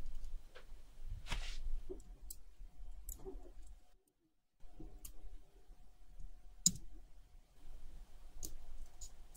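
Scattered small clicks and light taps of tools handling watch parts on a workbench during restoration, with a short rush of noise about a second in.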